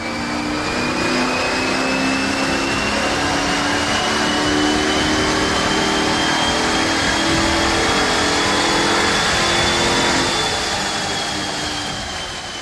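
Jeep Grand Cherokee SRT8's Hemi V8 running hard under load on a chassis dynamometer, with a high whine that rises slowly in pitch for about ten seconds. Near the end the throttle comes off and the sound winds down.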